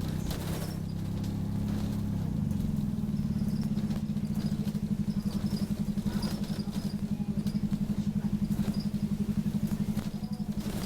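Optare Solo bus's diesel engine running with a low, fast, even throb that settles in about two seconds in, a sound likened to a motorbike. Faint high squeaks come and go above it.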